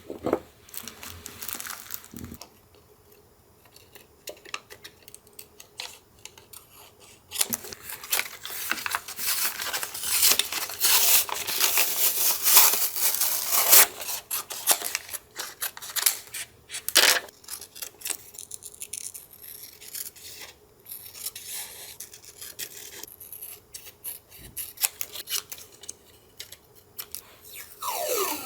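Paper being handled and torn by hand for a collage: rustling and ripping strokes, loudest for about six seconds in the middle, with quieter handling of paper before and after.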